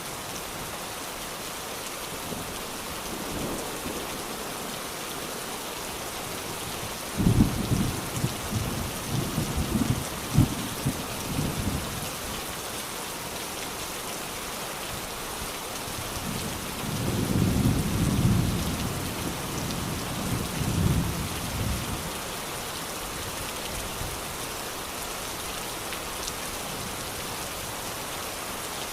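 Steady rain falling, with two peals of thunder: a sudden crack about a quarter of the way in that rumbles on for several seconds, then a slower rolling rumble past the middle.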